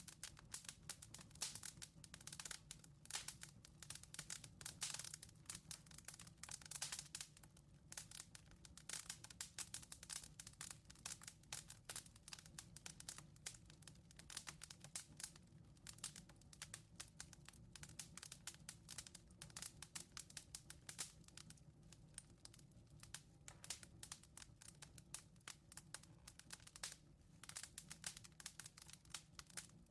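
Firewood burning in a fireplace firebox, crackling faintly with dense, irregular small pops and snaps.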